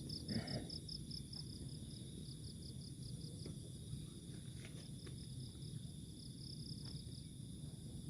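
Insects, crickets among them, chirping in fast even pulses, over a steady high-pitched insect drone and a low background hiss. A faint short knock comes about half a second in.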